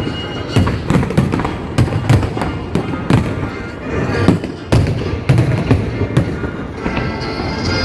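Aerial fireworks bursting close by, a rapid series of sharp bangs and booms with crackle, over music that grows plain near the end.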